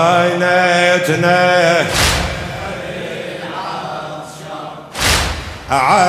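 Man chanting a Shia religious lament (latmiyya) in Arabic, holding long wavering notes over a steady low drone. A loud thump cuts in about two seconds in and again near the five-second mark.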